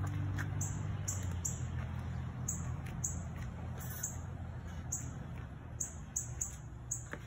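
A small bird chirping again and again in short high chirps at uneven spacing, over a low steady hum.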